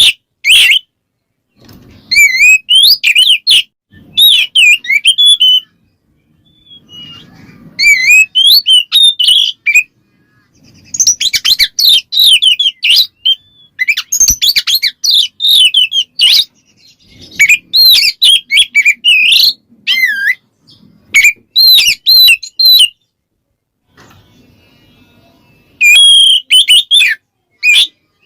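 Oriental magpie-robin (kacer) singing loud, varied whistled and warbling phrases in bursts of a second or two with short pauses between. This is its 'ngeplong' song, which calls out rival males.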